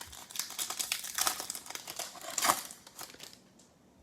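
Crinkling of a foil trading-card pack wrapper being handled, a dense crackle that fades out about three seconds in.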